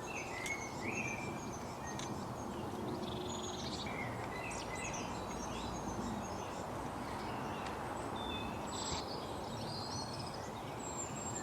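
Several small birds chirping and calling, with short whistled notes and trills scattered throughout, over a steady background hiss.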